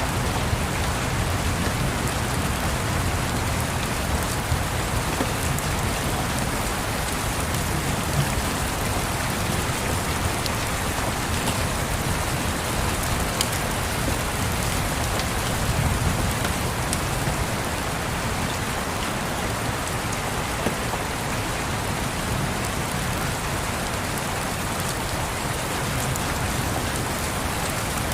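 Steady rain falling and tapping on a surface, an even hiss with a few light ticks scattered through it.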